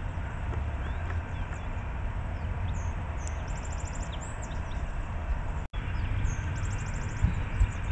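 Songbirds chirping, with a rapid high trill heard twice, over a steady low rumble. The sound cuts out for an instant a little past halfway.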